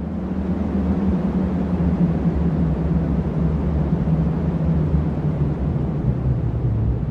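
Strong cyclone wind blowing steadily, with a low drone under the rushing noise; it swells in over the first second.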